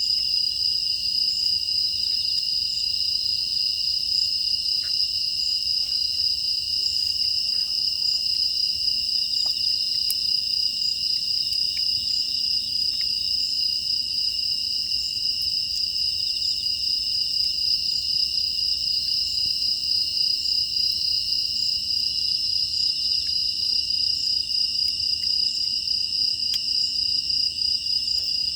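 Steady, unbroken chorus of grass insects such as crickets, trilling high. Faint scattered crackles of a wood fire sit under it.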